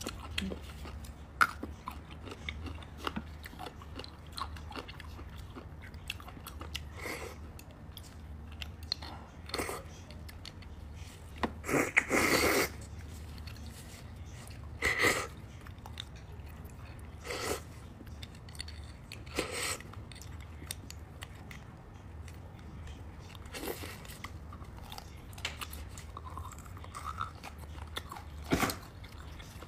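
Close-miked wet chewing and smacking of soft braised beef bone marrow. Short mouth sounds come every few seconds, the loudest about twelve seconds in, over a steady low hum.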